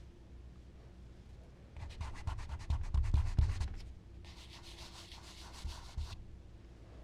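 Charcoal scratching on smooth Bristol paper in a run of quick, short strokes, then rubbing steadily over the paper for about two seconds.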